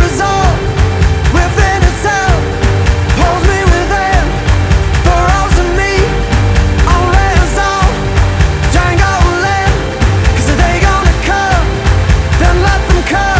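Rock song playing at full band volume with no sung words: heavy drums and bass under a short, bending melody line that repeats about every second and a half.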